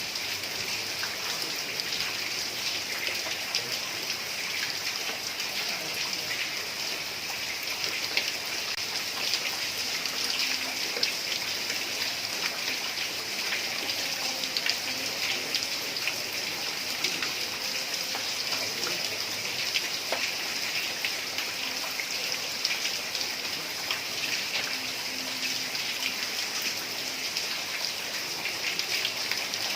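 Heavy rain falling steadily on roof tiles: an even hiss with many scattered sharp ticks of single drops.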